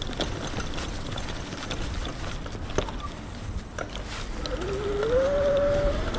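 Electric bike riding along: a steady low rumble with scattered clicks and rattles. In the last second and a half a pitched whine rises and then holds steady.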